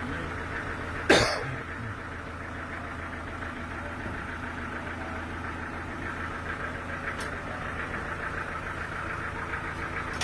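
Sawmill engine running steadily, with one sharp, loud knock about a second in and a faint click later.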